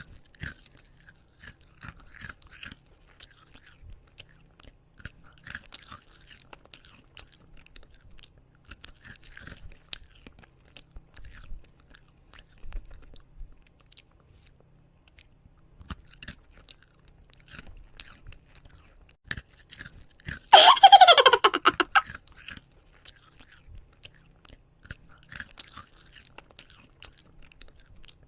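Close-up chewing and crunching of food, with short crisp crunches all the way through. About twenty seconds in, a loud sound falling in pitch lasts a second or so.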